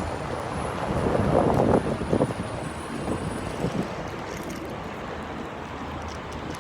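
Wind buffeting the microphone of a rider on an electric rental scooter, over a steady road rush; the buffeting is strongest about one to two and a half seconds in.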